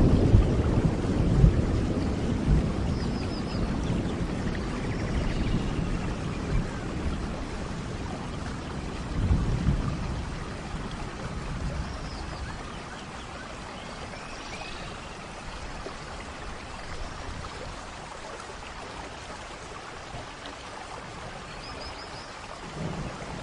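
Steady rain with rolling thunder: a loud low rumble dies away over the first few seconds, and another rumble swells briefly about nine seconds in. Faint short high chirps sound now and then over the rain.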